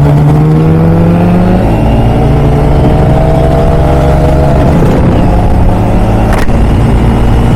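Motorcycle engine under way, its pitch rising steadily for about four and a half seconds as it accelerates, then dropping back and running lower. A short sharp click sounds near the end.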